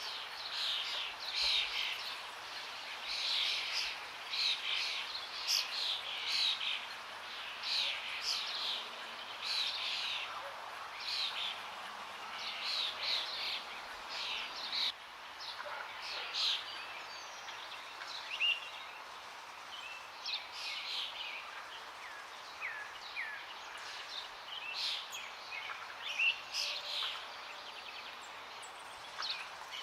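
Forest birds chirping and singing in quick, short falling notes, many overlapping, over a steady rush of flowing water. The birdsong is dense for the first half and thins out after about halfway.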